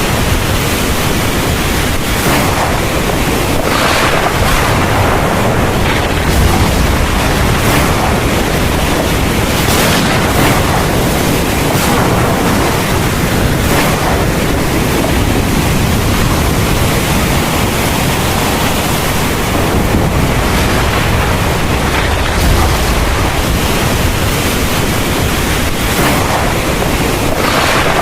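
Heavy thunderstorm rain pouring steadily, with a deep low rumble underneath and a few brief swells in intensity.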